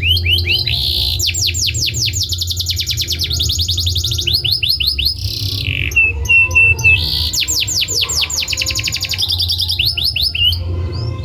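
Domestic canary singing: fast trills of rapidly repeated sweeping notes that switch to a new pattern every second or so, with a short held whistle about six seconds in, over a steady low hum.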